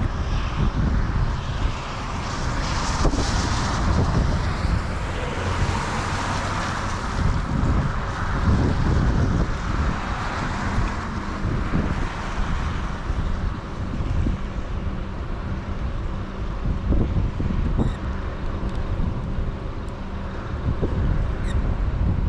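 Storm wind buffeting the microphone: a steady rushing noise with gusty low rumbling that rises and falls throughout.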